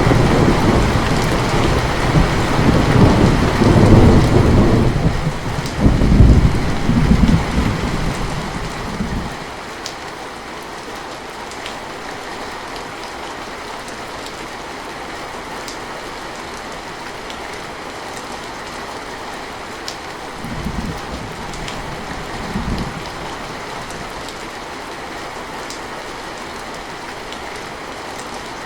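Steady heavy rain falling on a roof, with a long roll of thunder over the first nine seconds or so that swells twice before dying away. Later come two short, quieter rumbles of thunder a couple of seconds apart.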